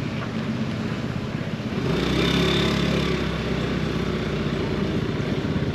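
Small two-wheeler engine running on the move, growing louder about two seconds in.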